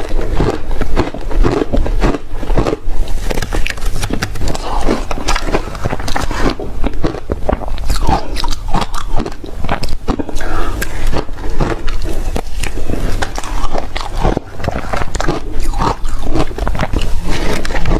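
Ice being bitten and chewed close to the microphone: loud, rapid crunching that runs on without a break.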